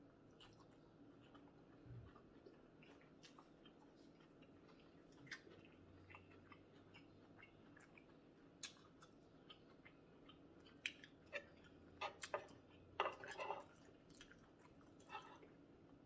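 Faint close-up chewing and mouth sounds of someone eating, with scattered small clicks and smacks that come thicker near the end.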